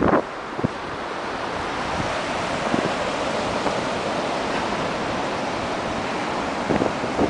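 Ocean surf washing onto the beach, a steady hiss of breaking waves that builds over the first second, with wind rumbling on the microphone.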